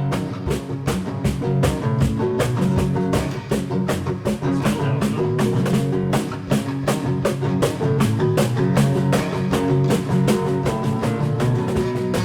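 A rock band jamming an instrumental groove: guitar over a drum kit keeping a steady, quick beat.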